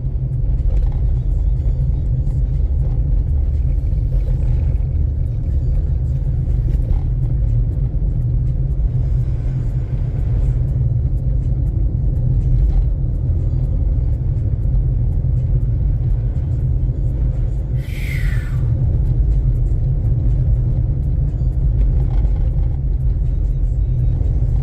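Car driving on snowy, slushy road, heard inside the cabin: a steady low road and tyre rumble. A brief falling squeak cuts in about three-quarters of the way through.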